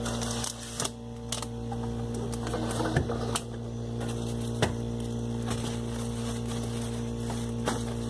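Scattered light clicks and knocks of food packages and containers being moved around inside a refrigerator, over a steady electrical hum.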